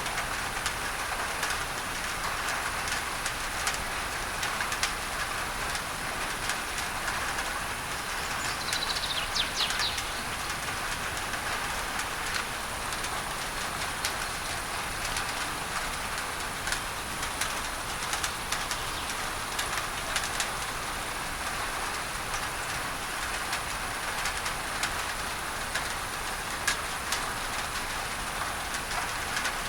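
Steady rain on a tin roof with pink masking noise mixed in, a fine patter of drops throughout. A short bird chirp sounds about a third of the way through.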